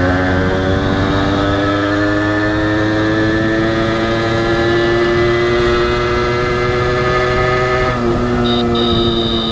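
Honda CDI H100S single-cylinder two-stroke engine under way, its pitch climbing slowly as the bike gathers speed, then dropping suddenly about eight seconds in. A high steady beep sounds in the last second.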